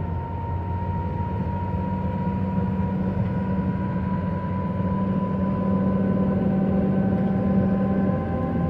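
Bucket truck's boom hydraulics running: a steady mechanical hum with a whine that slowly rises in pitch. The low hum drops off near the end.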